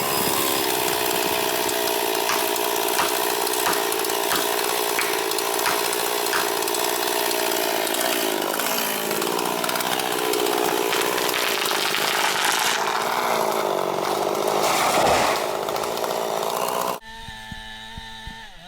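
Chainsaw running at full throttle through wood, a steady high-revving whine with hiss and scattered clicks. It cuts off abruptly near the end, leaving a quieter engine hum.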